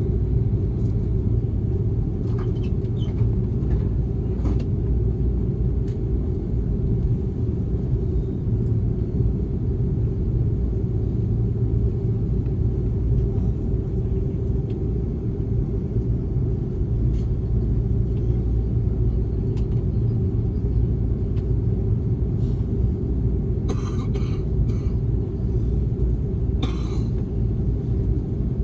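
Passenger airplane's steady low rumble, even in level throughout, with a few brief clicks near the end.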